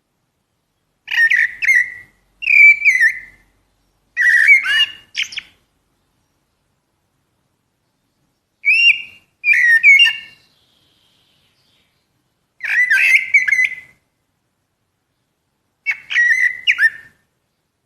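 Common blackbird singing: seven short phrases, each a fluty, warbling whistle followed by a thin, high twitter, with pauses of a second or more between them.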